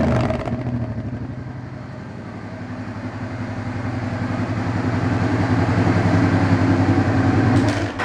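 1988 Honda Hawk GT NT650's V-twin idling steadily through its unbaffled exhaust just after a blip of the throttle.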